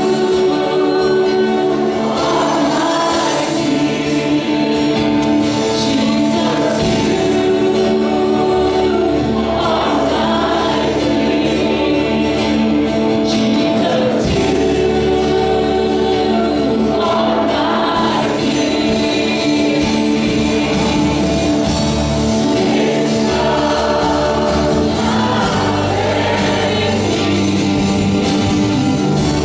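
A worship team singing a gospel song with instrumental backing, the voices in sustained phrases over steady bass notes.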